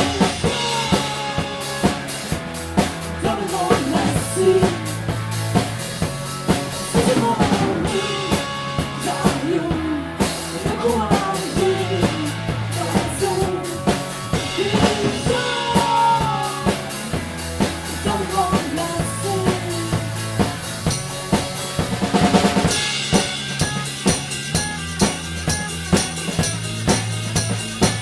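Instrumental passage of a band's song with no singing: a drum kit keeps a steady beat under held bass notes and a melodic line that slides between notes. About twenty-two seconds in, the high cymbal ticking becomes busier.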